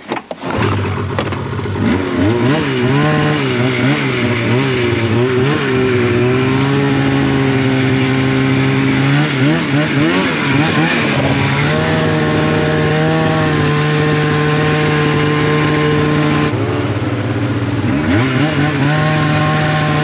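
Polaris RMK 700 snowmobile's two-stroke engine under way, its pitch rising and falling with the throttle for the first several seconds. It then holds a steady pitch, dipping and picking back up twice.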